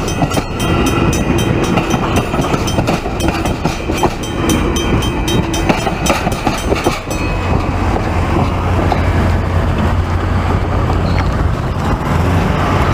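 Via Rail passenger train cars rolling past, the wheels clicking rhythmically over the rail joints. About halfway through the clicking fades out, leaving a steady low rumble.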